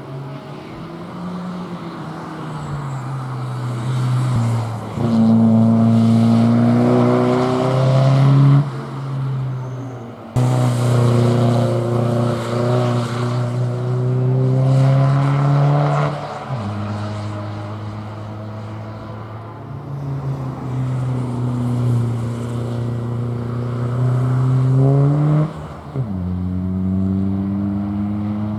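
Race car engine accelerating hard, its pitch climbing through each gear and dropping sharply at several upshifts.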